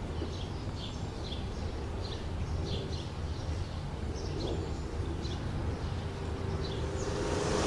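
Outdoor ambience with a small bird chirping over and over, short quick calls every half second or so, over a steady low rumble.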